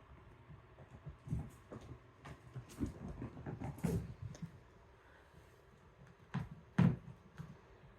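Kittens at play: a run of irregular soft thumps and scuffles, then two sharper knocks about two-thirds of the way through.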